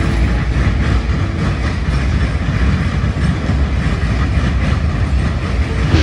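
A train rolling past, its cars' steel wheels running on the rails in a steady rumbling noise.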